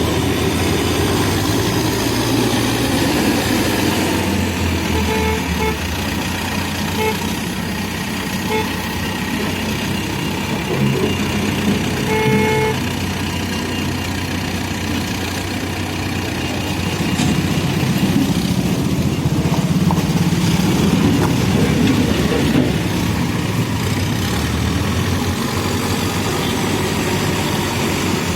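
A backhoe loader's diesel engine running steadily, growing louder for several seconds past the middle. Short vehicle horn toots sound a few times in the first half.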